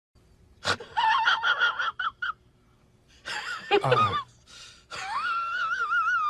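A high-pitched, squeaky, wheezing vocal sound effect: short squeaks at first, then a burst that drops steeply in pitch, then a long wavering squeal near the end.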